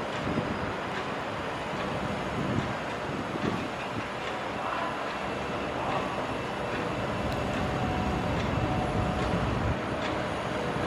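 Heavy construction machinery at work, a tracked excavator and a tractor with a dump trailer: diesel engines running with a steady rumble and scattered metallic clanks.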